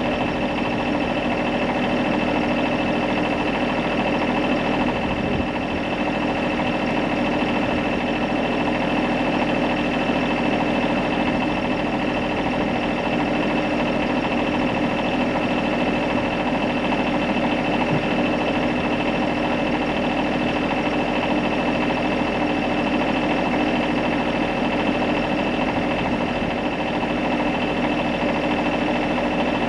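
A steady mechanical drone of several held tones, unchanging in pitch and level, like an engine or machine running at constant speed.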